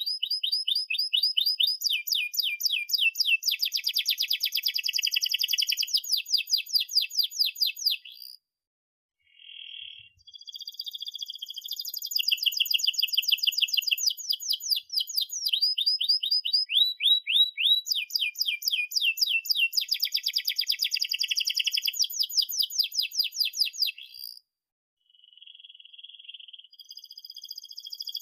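Domestic canary singing a long song of fast repeated chirps and rolling trills, broken by two short pauses.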